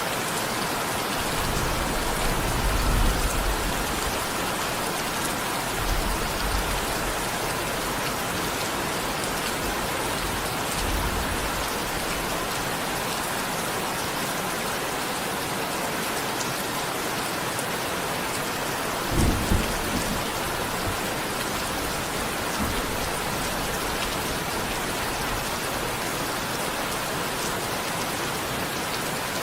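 Steady rain falling, with low rumbles of thunder a few times. The strongest and sharpest rumble comes about two-thirds of the way through.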